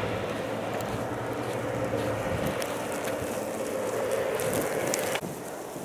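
Blizzard wind rushing over the microphone, with a steady low drone underneath. It cuts off abruptly about five seconds in.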